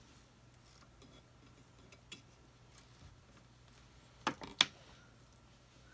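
Mostly quiet room tone with a faint click about two seconds in, then two sharp taps about a third of a second apart after four seconds, from the craft pieces being handled.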